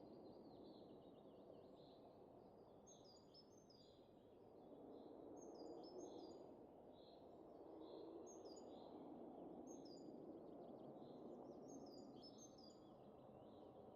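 Faint, low wind that swells and eases, with small birds chirping over it in short, repeated calls.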